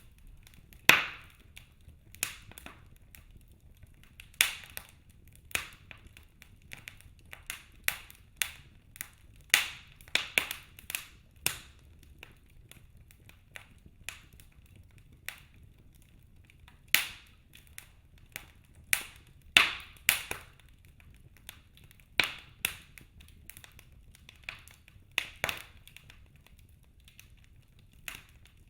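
Wood fire in a fireplace crackling: irregular sharp pops and snaps from the burning logs, a few much louder than the rest, over a faint low rumble of the flames.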